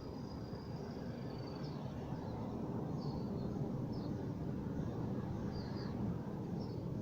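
Birds giving short high chirps a few times over a steady low rumble that grows slightly louder.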